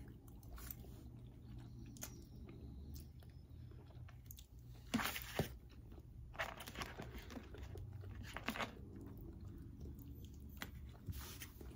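A person chewing a mouthful of spaghetti with meat sauce, close to the microphone, with soft wet mouth sounds and a few louder clicks about five seconds in.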